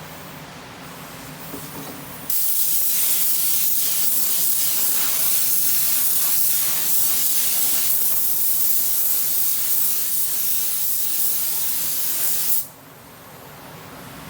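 Mini touch-up paint spray gun spraying base coat: a loud, steady hiss of air and paint that starts sharply about two seconds in and cuts off suddenly near the end.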